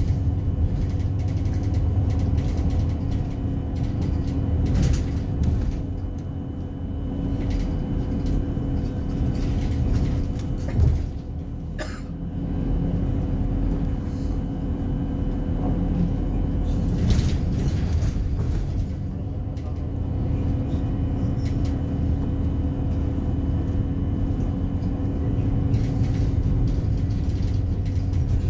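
Alexander Dennis Enviro300 Scania bus running: a steady engine drone over low road rumble, with a few brief knocks and rattles.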